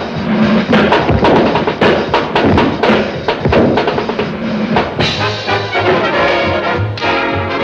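Swing-style orchestral music: quick drum and percussion hits for the first five seconds or so, then a brass section playing sustained chords.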